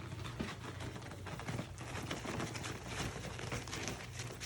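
Puppies moving about in a whelping box, making light scattered clicks and scratches over a low steady hum.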